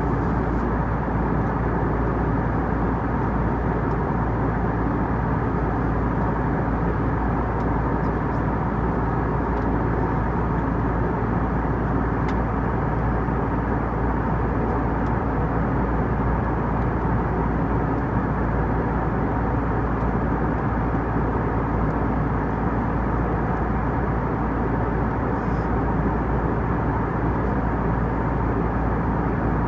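Cabin noise of an Airbus A320 in flight: a steady, even drone of engines and airflow that does not change.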